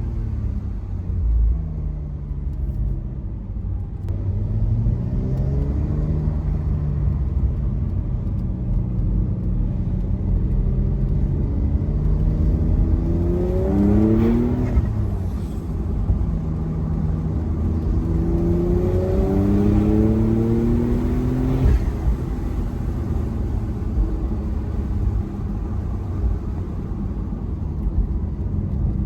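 Porsche 992.2 Carrera's turbocharged flat-six under way on a mountain road, pulling through the gears: short rises in engine pitch, then two long rising pulls about halfway and two-thirds of the way in, each cutting off suddenly at a shift or lift-off. Near the end it settles into a lower, steady rumble.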